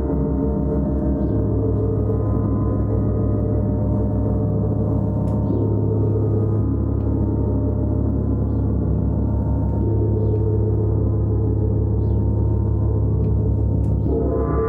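A large gong played in a continuous sustained drone, its deep tones shifting every few seconds as it keeps ringing.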